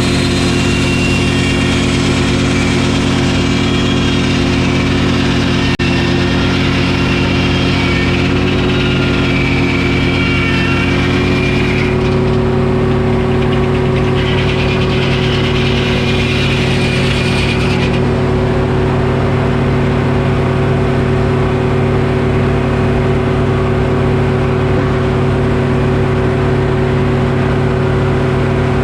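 Detroit Diesel engine running a Frick sawmill at a steady, loud pitch, with the higher hiss of the saw cutting oak over roughly the first twelve seconds and again for a few seconds a little later. The engine note rises slightly as the first cut ends and the load comes off.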